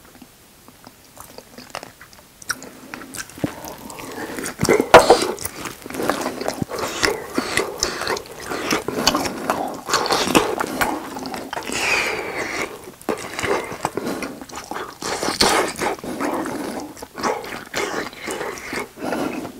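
Close-miked biting and chewing of grilled grilling cheese doused in Tabasco, mixed with nonverbal groans and sharp breaths at the sauce's heat. The first few seconds are quiet apart from a few small clicks, then the chewing starts and stays loud.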